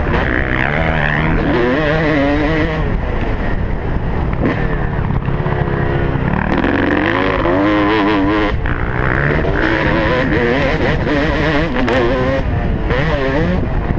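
Motocross bike engine revving hard while racing, its pitch climbing and dropping again and again as the throttle opens and shuts through the gears, over a steady low rumble.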